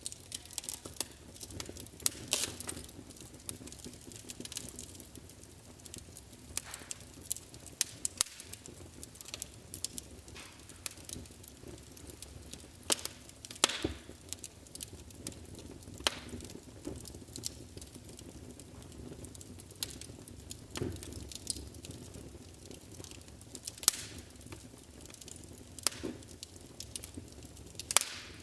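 Wood fire in a fireplace crackling, with irregular sharp pops and snaps over a soft steady crackle.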